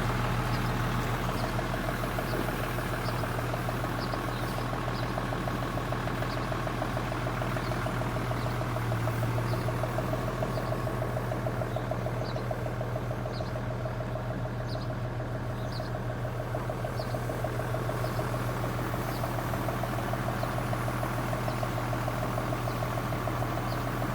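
Mitsubishi Fuso crane truck's diesel engine idling steadily while it warms up from a cold start at −17 °C, with a faint light ticking.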